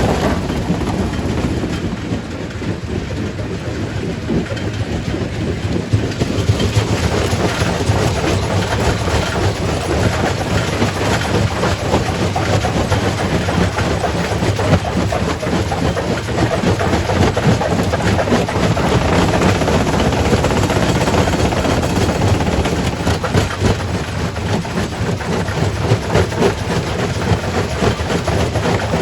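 Quarry primary rock crusher running: a steady heavy machine drone under a dense, irregular clatter of rock knocking and breaking as stone is fed through and crushed.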